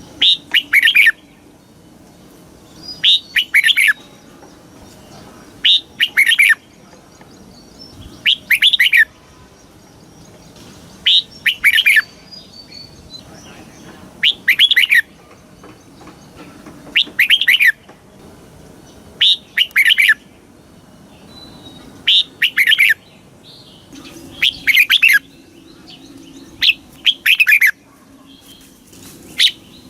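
Red-whiskered bulbul singing: a short phrase of a few quick notes falling in pitch, repeated about every two and a half to three seconds, around a dozen times, with faint chirps between the phrases.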